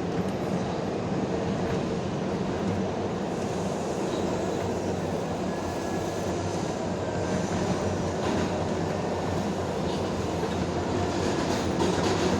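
R142A New York City subway train running at speed between stations, its wheels on the track making a steady rumble.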